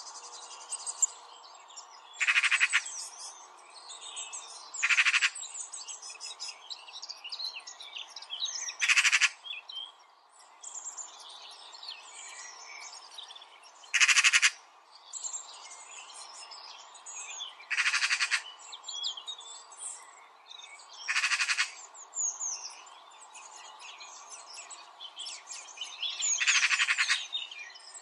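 Birds chirping and trilling, with a short, loud, pulsed call repeated seven times, about every four seconds.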